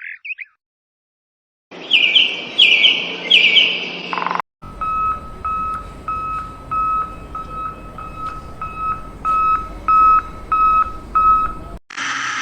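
Cartoon sound effects: a few rapid high chirps, then a steady series of short electronic beeps, about two a second, which stop just before the end.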